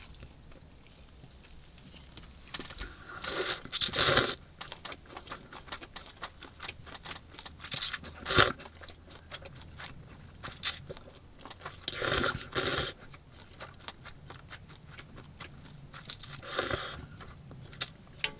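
A person eating cold noodles and a side dish: crunchy bites and chewing, with a few louder noisy bursts about every four seconds.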